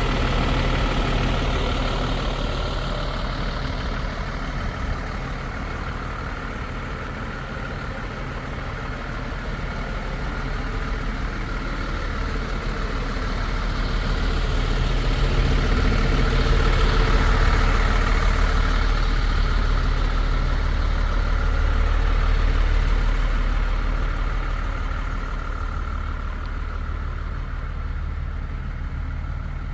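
MAN TGM 15.320 truck's six-cylinder diesel engine idling steadily, growing louder in the middle and easing off again.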